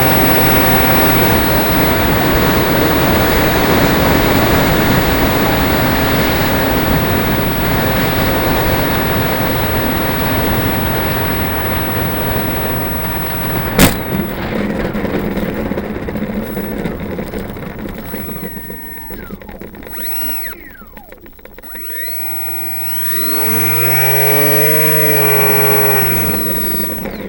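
Air rushing and propeller noise from the Aero Scout RC plane's electric motor, slowly fading over the first half, with one sharp click about halfway. Near the end the motor's pitch rises and falls again once, as the throttle is pushed up and backed off.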